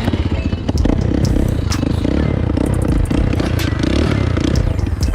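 2020 Bashan Storm 250 dirt bike's 250 cc engine running steadily close by, with scattered clicks and rattles over it.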